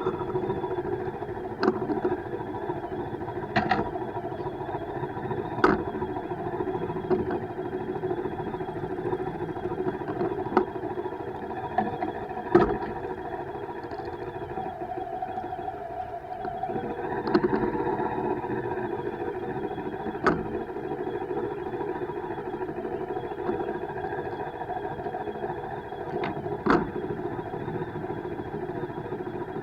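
Steady riding noise of a bike on the move, a constant hum with a sharp knock or rattle every few seconds.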